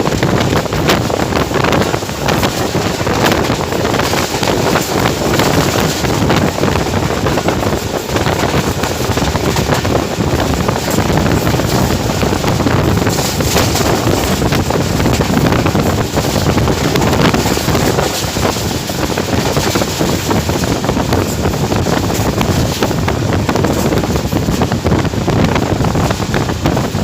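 Train running at speed behind a GEU20 diesel-electric locomotive, with wind rushing over the microphone and a steady clatter of wheels on the track.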